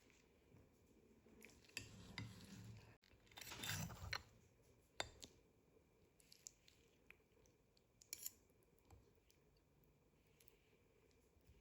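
Faint kitchen handling sounds: scattered small clicks and knocks, with a brief scraping rustle about three and a half seconds in and a sharper click just after.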